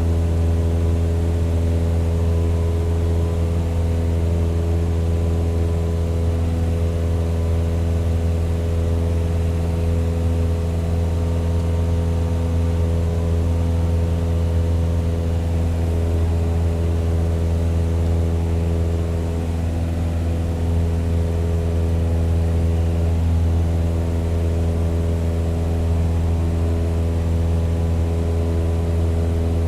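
Propeller aircraft engine running steadily, a constant-pitched drone with no rise or fall in speed.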